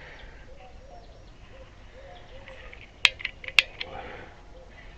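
A few sharp metallic clicks and clinks about three seconds in, from a propane torch and cylinder being handled, over a faint background.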